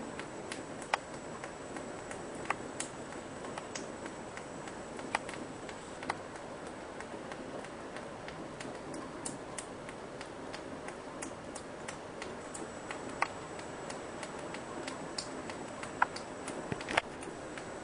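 Rainwater dripping inside a house: single drops land with sharp ticks at irregular intervals, over a steady hiss of rain.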